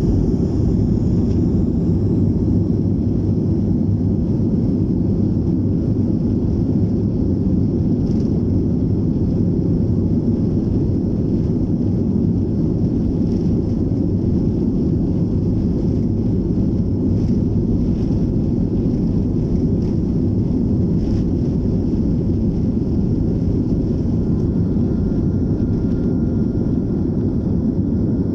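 BAe 146-200 jet airliner's four Lycoming ALF502 turbofans running, a loud steady low rumble with a faint high whine above it.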